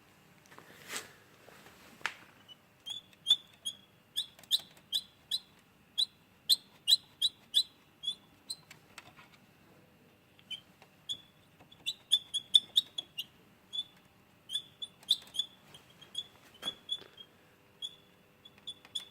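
A cricket chirping: short, high-pitched chirps, several a second in uneven runs, with a short lull midway. This is the 'metallic squeak' that was hunted down on a 2008 Nissan Qashqai. Faint rustling comes before the chirping starts, about 3 s in.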